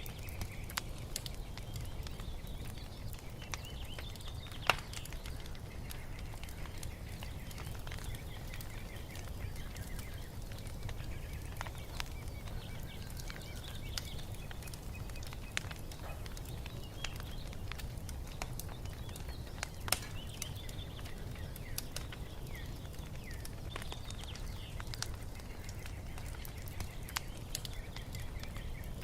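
Wood fire crackling: scattered sharp pops and snaps over a steady low rumble, the loudest pops about five seconds in and again about twenty seconds in. Birds chirp faintly and on and off behind it.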